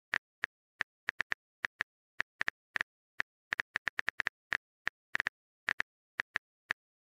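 Phone-keyboard typing sound effect: a long run of short, light tapping clicks, several a second at an uneven pace, as a message is typed out.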